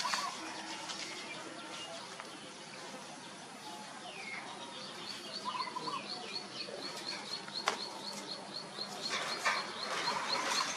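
A bird calling in a steady run of short, high, evenly spaced notes, about three a second, starting about halfway through. A few other scattered chirps come before it.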